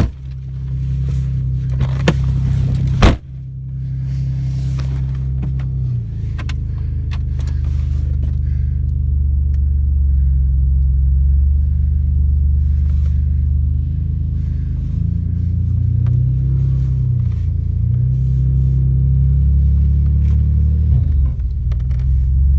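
Pontiac's engine, its exhaust broken, running with a loud low rumble as the car is driven slowly in snow; the engine note shifts up and down several times. Two sharp knocks sound in the first few seconds.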